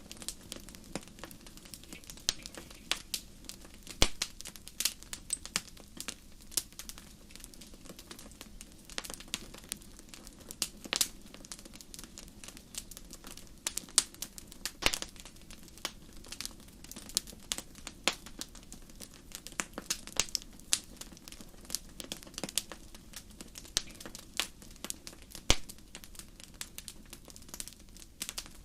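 Wood fire in a fireplace crackling: irregular sharp pops and snaps, several a second and uneven in loudness, over a steady low noise from the burning.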